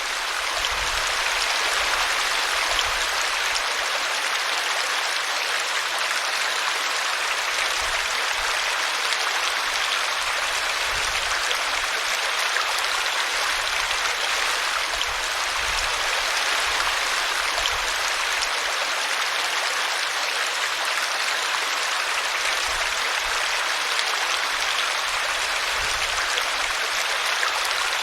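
A small brooklet running steadily over a tree root: a constant splashing rush of water.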